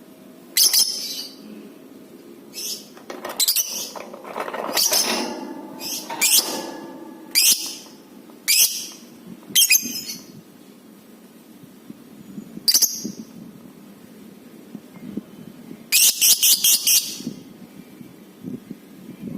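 Lovebird calling with sharp, shrill chirps and screeches that come in short separate bursts every second or so. Near the end it gives a quick run of about five rapid notes.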